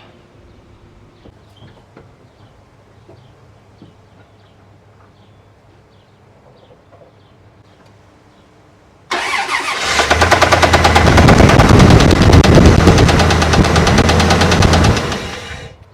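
A Ram 1500 pickup's worn engine starts about nine seconds in and runs for about six seconds with a dense, rapid knocking, then shuts off. The owner takes the noise for a spun bearing in the bottom end and top end, or a rod knock or bad lifter.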